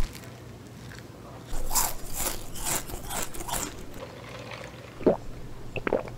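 Chewing a mouthful of toasted bread with avocado and egg. A run of crunches starts about a second and a half in and lasts about two seconds.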